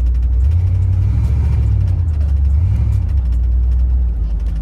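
Engine of a 1988 box Chevy heard from inside the cabin while driving, a steady low drone. Its pitch steps up about half a second in and drops back a little after three seconds.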